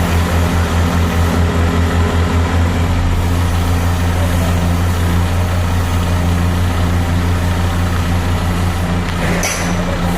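Heavy diesel engine of a construction machine running steadily at a low, even throb. A brief hissing noise comes about nine seconds in.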